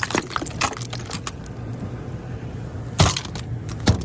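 Pickup truck engine idling with scattered clicks and knocks, then two loud thumps about three seconds and about four seconds in.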